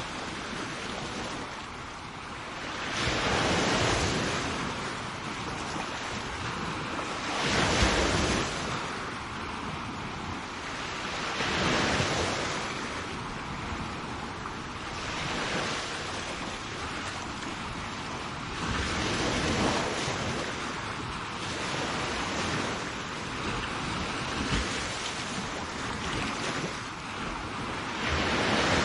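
Sea waves breaking on the shore, a louder surge of surf roughly every four seconds over a steady wash.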